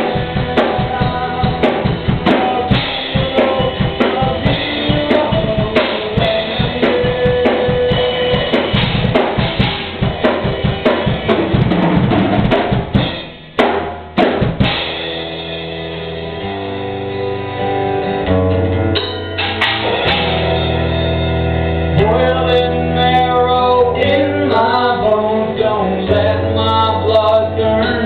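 Live band playing, drum kit driving the first half with dense hits. About halfway in the music briefly drops out, then continues with long held bass notes and a lighter part above.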